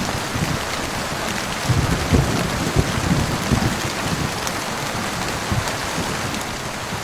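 Steady heavy rain hissing, with irregular low thuds of drops striking a surface close by.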